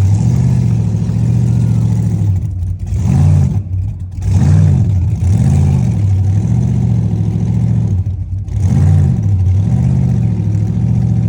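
A car engine revved over and over, its pitch rising and falling in repeated swells about a second apart, with a few brief dips where the throttle comes off.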